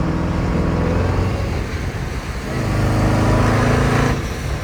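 Jeep Grand Cherokee Trackhawk's supercharged 6.2-litre Hemi V8 under throttle. It holds a steady note for about a second and eases off, then pulls hard again with a slightly rising pitch, and cuts off sharply near the end as the throttle is lifted.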